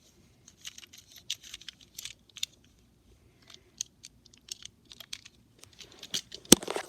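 Small objects being handled: a scatter of light clicks, taps and faint crinkles, with one sharper click near the end.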